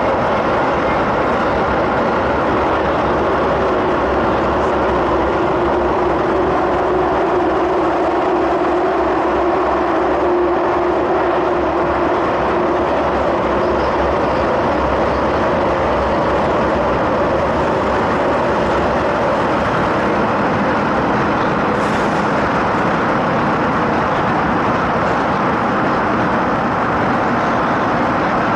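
Running noise inside the carriage of an MTR MLR electric train in motion: a steady loud rush and rumble of the train on the rails. A low hum holds for several seconds in the first half, and there is one short tick about 22 seconds in.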